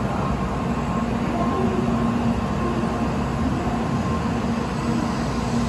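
N700A Shinkansen train running past the platform: a steady rumble of wheels and running gear, with a faint steady hum from the train's motors.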